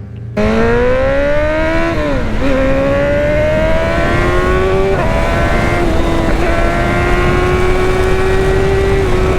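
BMW inline-four sport bike engine pulling hard at high revs, with wind rushing past. The note climbs, drops sharply at an upshift about two seconds in, then holds high and rises slowly.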